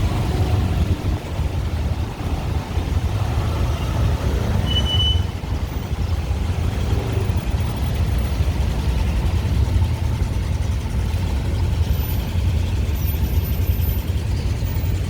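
Steady city traffic noise of motorbikes, cars and tuk tuks, dominated by a continuous low engine and road rumble.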